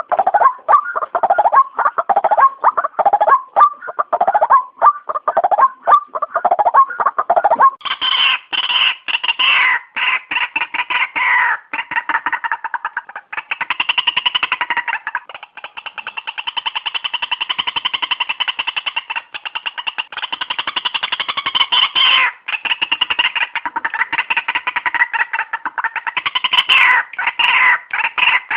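White-breasted waterhen (ruak-ruak) calling, a fast string of repeated calls used as a bird lure. About eight seconds in, the calls turn higher and denser and go on almost without a break.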